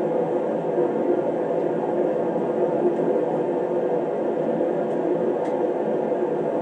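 Shop space heater running: a steady blowing noise with a faint hum, unchanged throughout.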